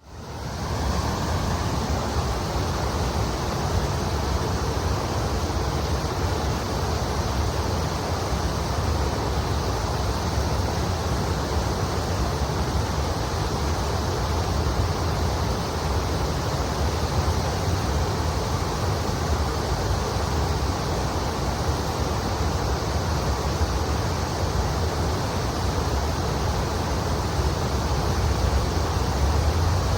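River water flowing and rushing steadily over a shallow riverbed, a continuous even wash that fades in over the first second, with a low rumble underneath.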